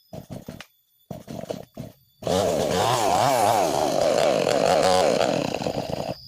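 Chainsaw engine firing in a few short bursts, then running hard for about four seconds with its pitch rising and falling, and cutting off abruptly near the end.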